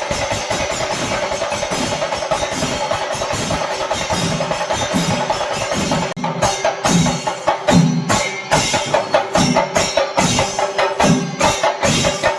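Kerala chenda melam drumming: a troupe of chenda drums beating fast, dense rolling strokes. About six seconds in there is a brief break, after which the strokes come more spaced and accented, with heavier low beats.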